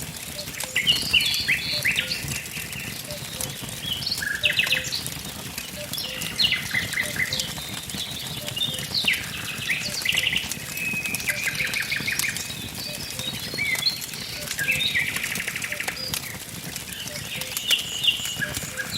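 Wood fire crackling with scattered sharp pops, under several songbirds singing short phrases and rapid trills.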